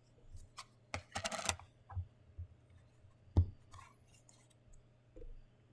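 Handling of boxed figure packaging: scattered clicks and taps, a brief rustle about a second in, and a sharp knock about three and a half seconds in.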